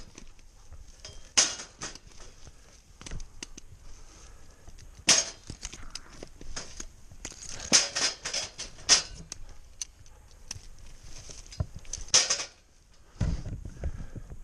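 Irregular sharp snaps and crackles, like dry twigs and brush breaking underfoot, with a few low thuds about a second before the end.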